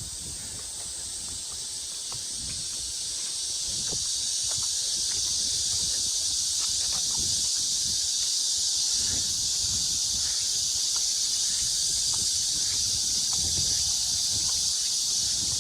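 A chorus of cicadas shrilling in a steady high-pitched drone, swelling louder over the first few seconds and then holding steady.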